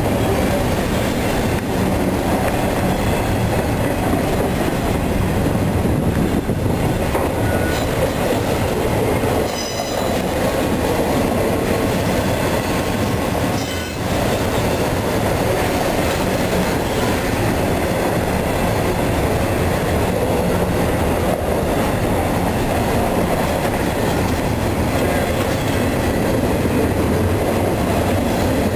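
CSX intermodal freight train's container cars rolling past steadily at close range, wheels clattering on the rails. A few brief high wheel squeals come through about eight to ten seconds in.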